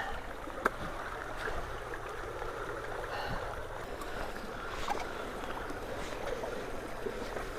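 Floodwater rushing steadily into a just-unblocked roadside culvert, drawing leaves in with it. A single sharp click sounds just under a second in.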